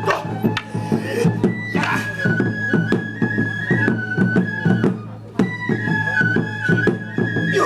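Traditional Japanese music: a flute plays a held melody that steps between a few high notes over a steady low drone, with many sharp clacks throughout.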